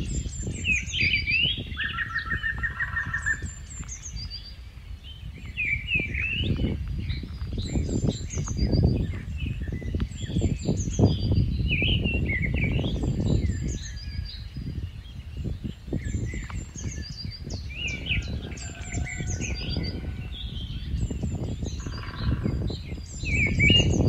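Birds chirping and calling in short, high phrases again and again, over a gusting wind rumble on the microphone.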